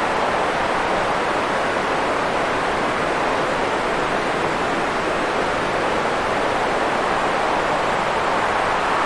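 Steady, unchanging noise with no pitch or rhythm, fullest in the middle range: a generated white noise track for sleep.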